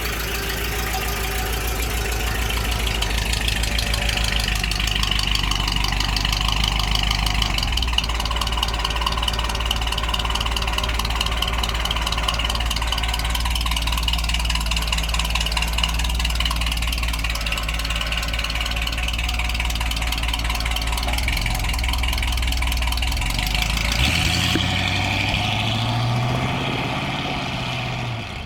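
1957 Cadillac's 365 cubic-inch V8 running steadily, its pitch shifting in the last few seconds.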